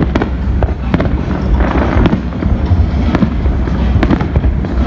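Fireworks going off: a quick series of sharp bangs over a deep rumble, with a burst of crackling about two seconds in.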